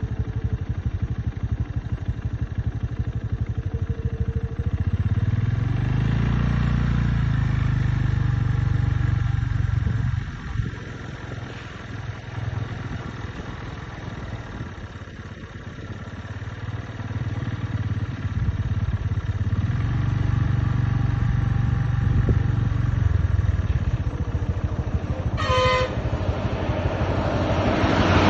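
A vehicle engine runs with a steady low hum, going quieter for several seconds in the middle and then picking up again. Near the end there is a brief high toot.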